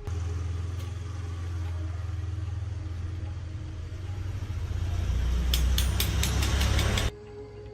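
Rice milling machine running with a steady low hum; about five seconds in it grows louder and starts rattling, then the sound cuts off abruptly.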